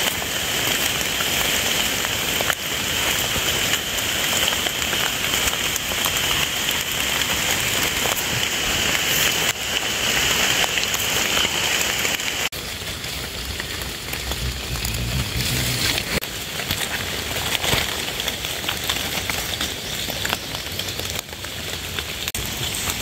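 Steady rain falling on wet leaf litter, with a steady high-pitched shrill running under it that drops away suddenly about halfway through.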